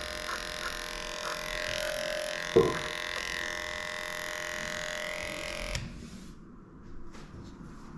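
Electric dog grooming clippers with a 10 blade running steadily, a hum with several fixed tones, while shaving through matted coat. There is a single sharp knock about two and a half seconds in. The clippers switch off suddenly near the end, leaving faint clicks and handling sounds.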